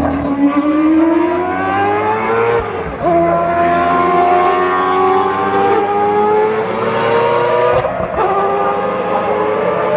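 Race car engine accelerating hard, its pitch climbing steadily through the gears, with a sudden drop at an upshift about three seconds in and another near eight seconds.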